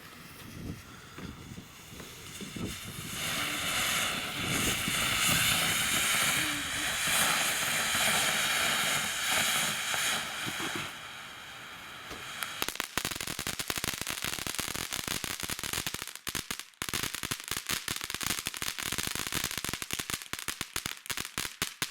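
Cannon Brand "Prank Box" firework fountain hissing as it sprays, building up over the first few seconds, then giving way about halfway through to a rapid string of crackling pops that cuts off suddenly at the end.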